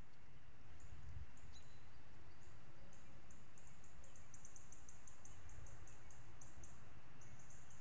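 Small bird calling: a run of short, thin, high-pitched notes repeated several times a second, over a steady low rumble.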